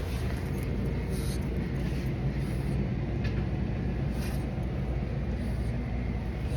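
Steady low hum of indoor background noise, with a few faint brief rustles.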